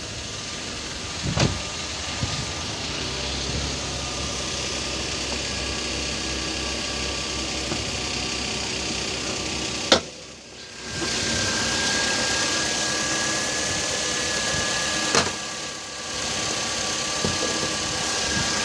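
Nissan car engine idling, a steady running sound with a faint whine. There are sharp clicks about a second and a half in, at about ten seconds, and near fifteen seconds, and the level dips briefly after the later two.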